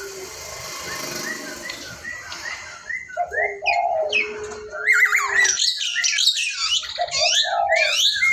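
Jalak jawa (Javan starling) singing: a string of varied slurred whistles and chattering notes. The song gets louder and busier about halfway through.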